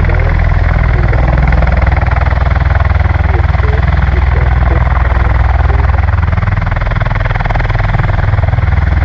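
Marine Corps V-22 Osprey tiltrotors running at high power, a loud steady roar of turboshaft engines and proprotors with a rapid rotor beat, as one begins to lift into ground effect.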